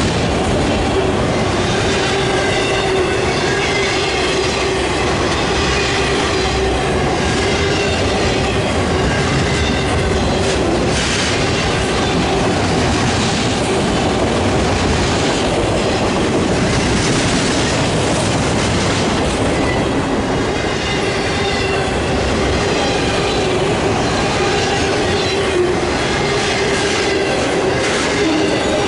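Freight train cars rolling past, wheels clacking over the rail joints, with a steady high wheel squeal throughout.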